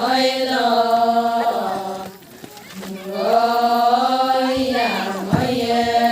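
Adi ponung chant: voices singing long, drawn-out notes, two held phrases with a short breath break about two seconds in.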